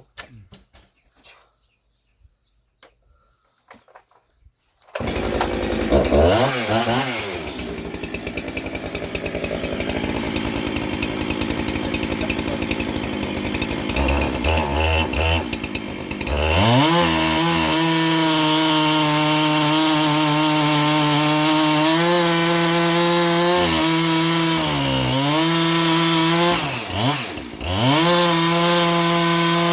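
Power tool starting up about five seconds in and running at high speed on wood, its pitch dipping briefly several times as it bites into the cut.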